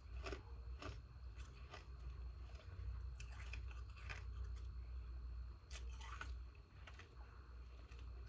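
Ice being bitten and chewed, crunching in irregular sharp cracks a few times a second. The ice is chunks frozen in the shape of humidifier top pieces.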